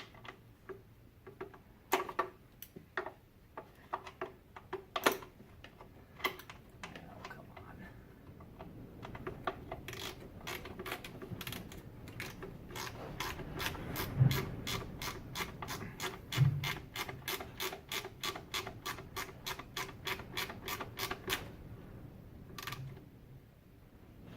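Ratchet wrench with a T40 Torx bit clicking as it runs in the screw that holds a BMW E46's DISA valve: scattered clicks and knocks at first, then an even run of about three to four clicks a second for some ten seconds, with a couple of dull knocks partway through.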